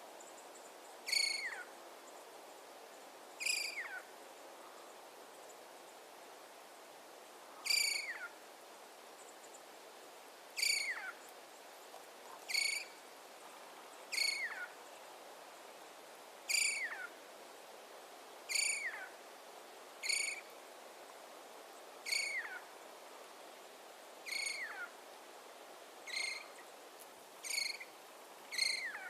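An animal calling over and over, about fourteen short, sharp calls that each slide down in pitch, spaced a second and a half to four seconds apart, over a steady hiss.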